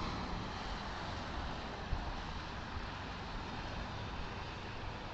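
Steady road and engine noise of a moving car, with one faint tick about two seconds in.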